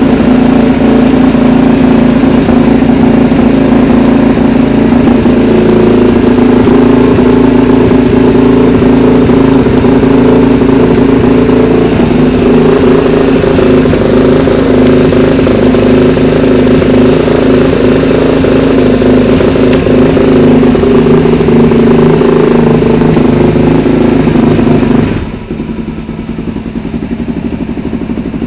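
Suzuki DR-Z400SM's single-cylinder four-stroke engine running loud through an exhaust with the dB killer removed, held at steady raised revs. Near the end the revs drop suddenly and it settles into a lumpy idle of separate pulses.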